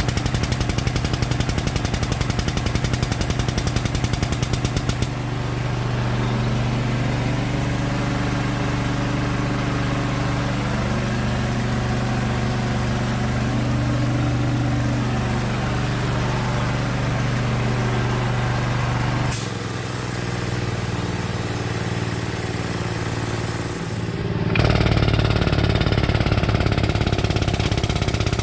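A machine running steadily with a rapid, even pulsing over a low hum. Its sound changes abruptly a few times.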